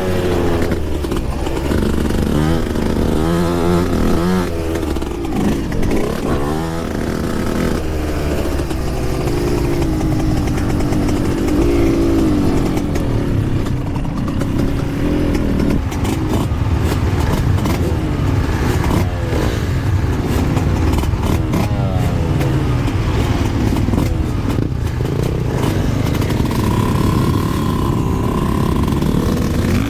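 Yamaha YZ125 dirt bike's 125 cc single-cylinder two-stroke engine being ridden on a motocross track, its pitch climbing and dropping again and again as the throttle opens and closes, over a constant rush of wind and ground noise.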